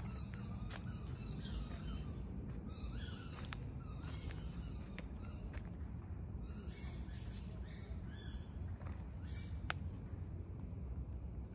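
Birds calling: about six short runs of high chirps in quick succession, over a steady low rumble, with a few sharp clicks in between.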